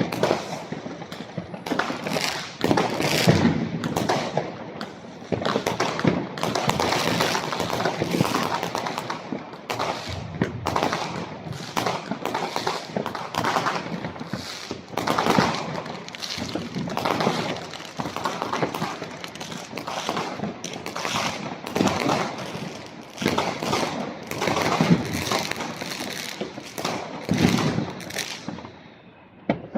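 New Year's fireworks and firecrackers going off continuously, dense irregular bangs and crackling volleys overlapping.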